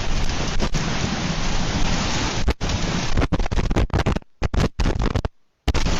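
Loud, steady rushing storm noise, rain or wind hitting the microphone, that cuts out briefly several times in the second half.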